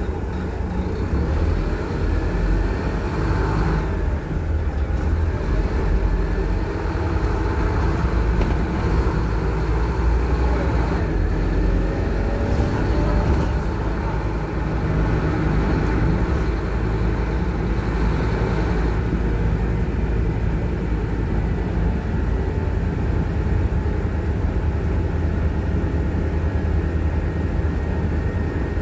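Scania K230UB single-deck bus with its five-cylinder diesel engine, heard from on board while driving: a steady low engine rumble with road noise. The engine pitch rises and falls a few times in the first half.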